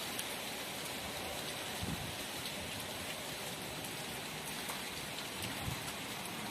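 Strong wind blowing hard, a steady rushing hiss, with low buffets of gusts on the microphone about two seconds in and again near the end.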